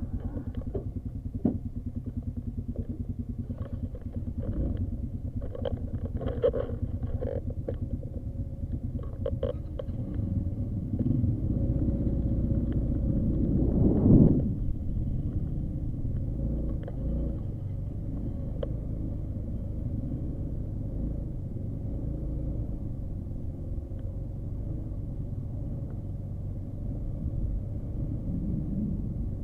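Small motorcycle engine running with a pulsing low rumble, a few clicks and knocks in the first ten seconds, then the revs rise to a peak about 14 seconds in and settle to a steady run.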